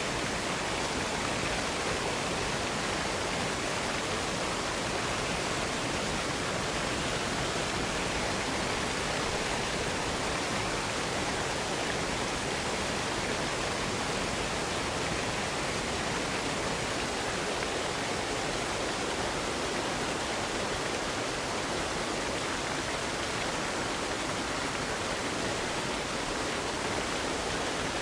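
Waterfall: a steady, even rush of falling water without change or distinct splashes.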